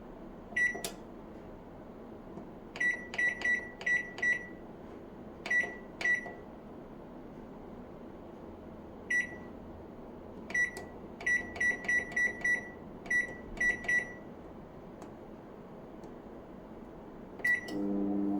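Samsung microwave oven's control panel beeping at each key press: about twenty short, high beeps in irregular runs. Near the end the oven starts running with a steady hum.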